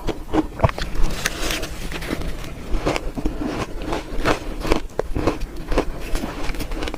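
Close-miked crunching of red shaved ice as it is bitten and chewed: a dense, irregular run of crisp cracks and crackles.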